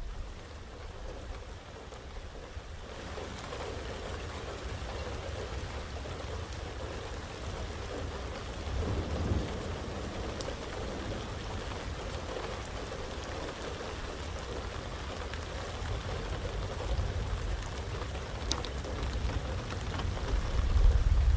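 Heavy rain falling steadily with thunder rumbling low underneath. The rain thickens about three seconds in, a roll of thunder swells around nine seconds in, and a stronger rumble builds near the end.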